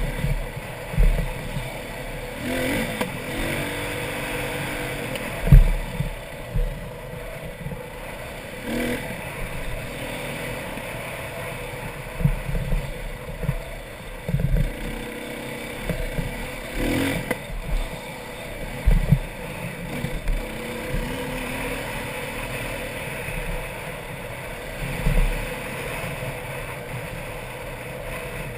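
Dirt bike engine running and revving up and down while climbing a rough trail, with rumble from wind and bumps and a few sharp knocks as the bike hits ruts, the loudest about five seconds in and again past the middle.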